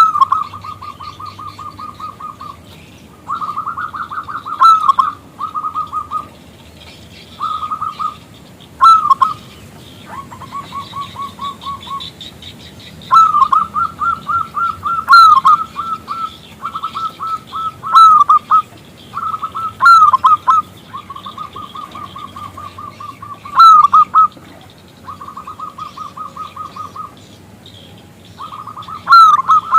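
Zebra dove (perkutut) calling: phrase after phrase of rapid, trilling coo notes with a louder accented note at the start of many phrases, separated by short pauses.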